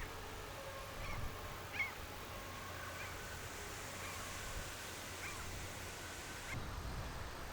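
Birds calling: short high calls, about six or seven spaced roughly a second apart, over a faint steady hum.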